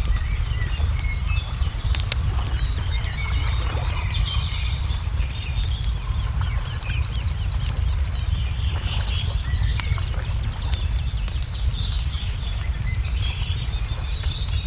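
Wood fire crackling with scattered sharp pops, over a steady low rumble, while small birds chirp and trill throughout.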